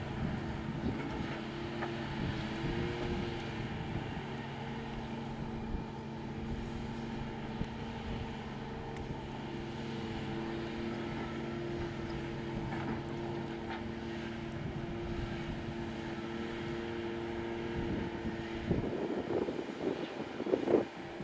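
Heavy diesel machinery on a loading site: an engine and hydraulics running with a steady hum, the pitch lifting briefly about three seconds in. Near the end the hum gives way to rough clattering and knocks.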